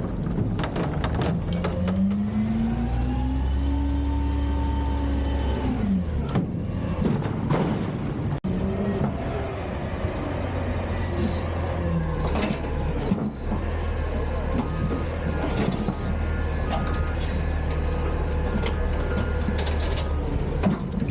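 Autocar/Heil front-loader garbage truck's diesel engine revving up over a couple of seconds, holding, then dropping back about six seconds in, as it drives the hydraulics. It then keeps running steadily with scattered knocks and clanks.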